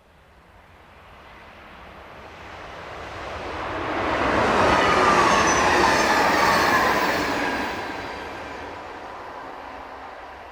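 ODEG Stadler KISS double-deck electric multiple unit passing at speed. It grows louder as it approaches, is loudest for about three seconds as it goes by, with a whine that drops in pitch, then fades as it moves away.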